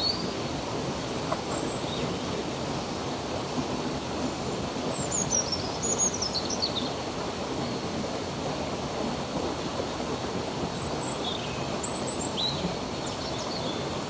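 Steady rush of flowing stream water, with small birds chirping high, thin whistled notes in short bursts: at the start, around the middle, and again near the end.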